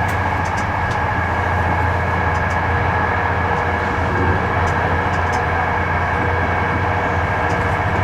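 Old passenger train carriage rolling along the track, heard from inside: a steady low rumble with a constant high tone over it and a few faint ticks.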